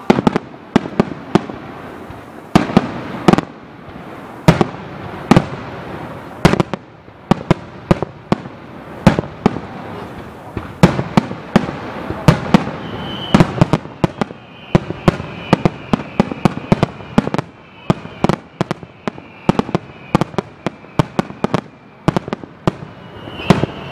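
Fireworks display: a rapid, irregular volley of aerial shell bursts, at times several sharp bangs a second, each with a short echoing tail.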